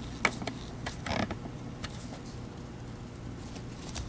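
A vacuum power head's parts being handled as the motor is set and the drive belt tensioned: a few scattered sharp clicks, with a short scrape about a second in.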